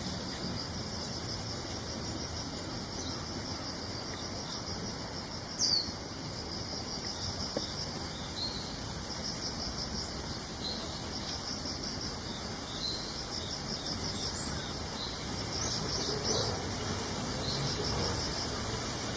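Wild songbirds chirping outdoors over a steady, evenly pulsed high trill. One louder call slides downward in pitch about six seconds in.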